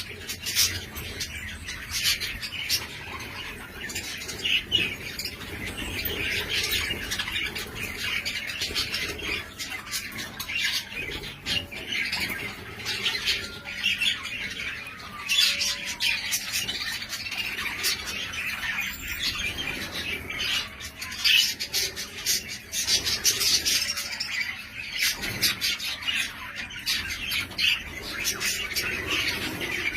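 Budgerigars chattering without a break: a continuous run of many short chirps, warbles and squawks.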